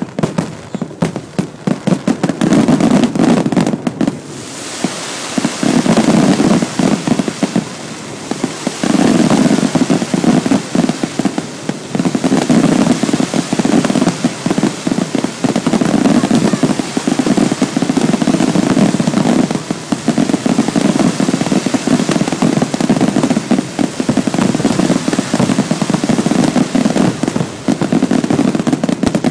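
Fireworks and firecrackers going off in a dense barrage: separate bangs at first, thickening about four seconds in into a continuous, loud crackle of countless overlapping reports.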